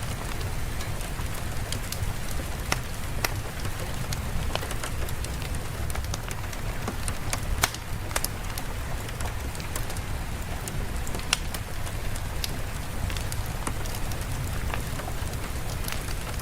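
Steady rain with the crackle of a wood fire: an even hiss of rain with frequent sharp pops and ticks scattered through it.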